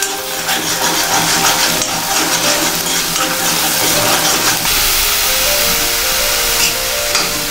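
Ground pepper, fennel, ginger and garlic paste sizzling in hot coconut oil in a black iron kadai, stirred with a steel spoon that scrapes the pan. Near the end, sliced onions are tipped into the oil.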